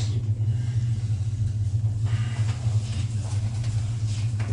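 Aerial tramway cabin in motion: a steady low hum and rumble heard from inside the cabin.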